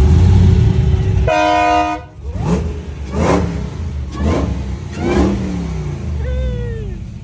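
Car engine running loud, then a car horn honks once for more than half a second, about a second in. After it come several quick rises and falls in pitch about a second apart, like engine revs.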